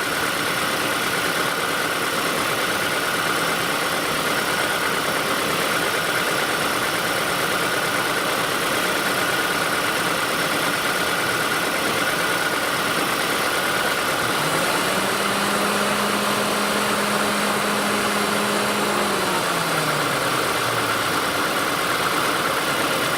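A 2008 Ford Escape Hybrid running under the hood: a steady rushing noise with a steady high whine. About fourteen seconds in, a lower hum rises, holds for several seconds, then falls away about twenty seconds in.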